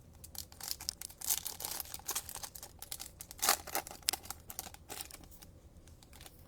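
Trading card pack and cards being handled close by: a run of crinkling, rustling and sliding noises, busiest from about a second in to five seconds in.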